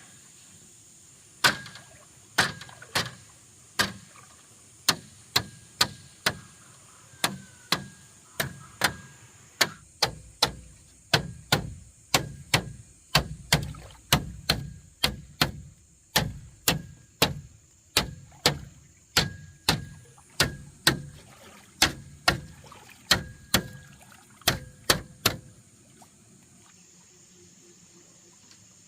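A hand tool struck over and over in a steady rhythm, about two sharp blows a second, some with a faint ring. The blows go on for about 24 seconds and then stop, over a steady background of crickets.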